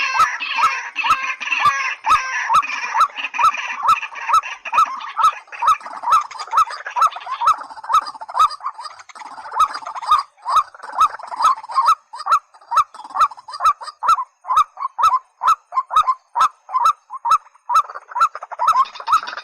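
White-breasted waterhen calling: a steady string of short, hoarse, hooked notes about two to three a second, with sharp clicks in time with them. Higher chattering calls overlap during the first few seconds.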